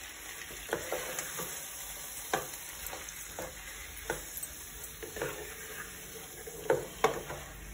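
Marinated chicken frying with spice masala in a nonstick pan, a steady sizzle, while a slotted spatula stirs and turns the pieces, knocking and scraping against the pan now and then.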